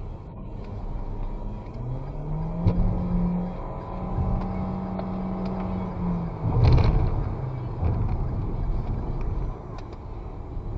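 Engine and road noise from a vehicle driving at night, with wind. The engine note climbs about two seconds in, holds steady, then drops off after about six seconds. A brief loud rush of noise follows just after.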